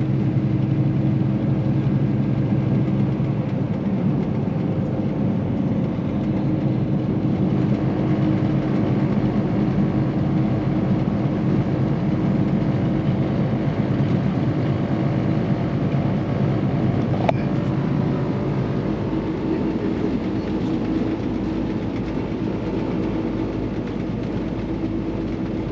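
Semi-truck's diesel engine and road noise heard from inside the cab while driving, a steady low drone whose engine note shifts a few seconds in. A single sharp click about seventeen seconds in.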